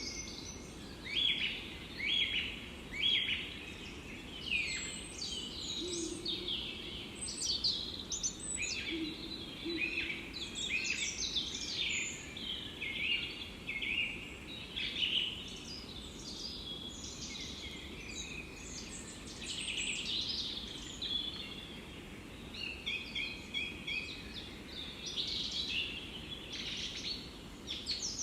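Several small birds singing in a forest, with many short chirps and trills overlapping throughout, over a steady low background noise.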